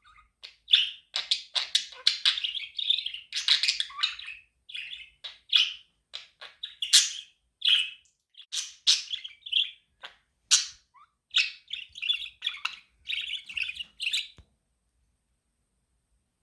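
Budgerigar chirping: a fast, uneven run of short high chirps and warbles that stops suddenly about two seconds before the end.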